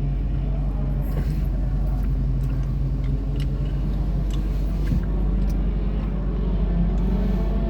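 Sport compact race cars running as a pack on a dirt oval under green after a restart, heard as a steady low engine rumble with a few small clicks.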